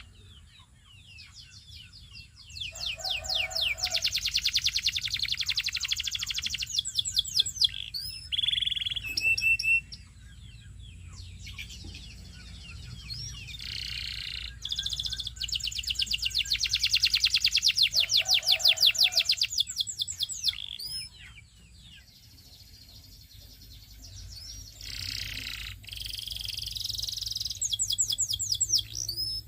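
Domestic canary singing: long phrases of rapid, evenly repeated trill notes a few seconds each, broken by quieter pauses with scattered short chirps and a few low notes.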